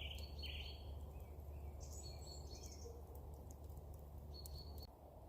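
Small woodland birds singing and chirping: short high calls at the start, a brighter, higher trill about two seconds in, and another short call near the end. Under them runs a low steady hum that drops away just before the end.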